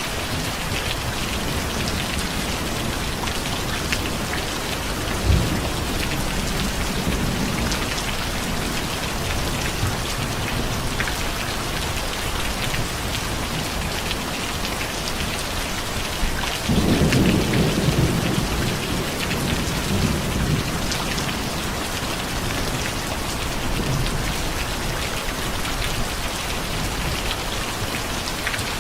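Steady rain falling, with a short low thump about five seconds in and a rumble of thunder a little past halfway that swells and fades over about two seconds.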